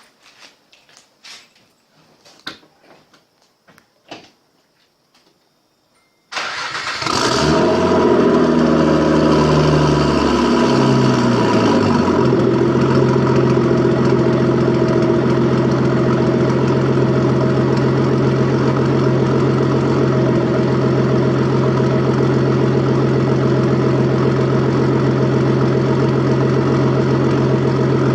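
A few faint clicks, then about six seconds in a Nissan RB25DET Neo turbocharged straight-six with a straight-pipe exhaust fires up on a cold start. It runs at a raised fast idle for a few seconds, then settles to a lower, steady, loud idle.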